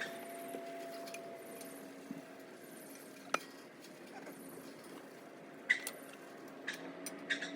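A few sharp knocks and clinks, spaced irregularly, over a steady low hum.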